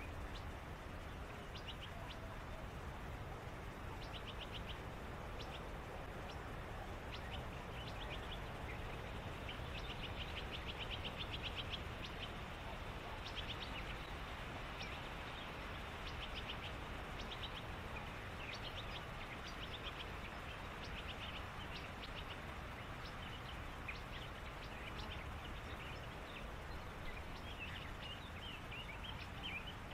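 Birds calling, with repeated rapid rattling trills of short, high pulses coming and going, over steady low background noise.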